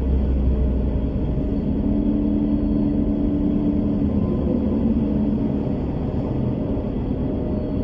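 Bus ambience: steady low rumble of the engine and road, with a steady hum that fades out about five seconds in.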